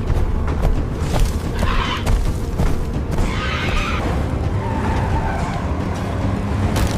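Car engine running hard with tyres skidding, over a steady low rumble and scattered short knocks.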